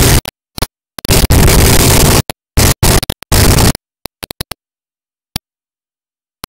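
Harsh, clipped static noise in bursts that cut in and out abruptly with dead silence between them. It stops about two thirds of the way in, leaving silence with a few isolated clicks.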